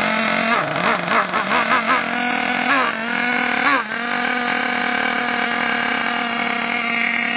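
Hobao Hyper 12 Mini ST's nitro glow engine running just after a one-pull cold start. It is blipped several times in quick succession in the first two seconds and revved twice around three and four seconds in, then settles to a steady idle.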